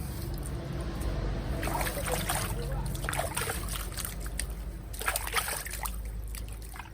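Water trickling and splashing, with a run of small clicks and knocks starting about two seconds in.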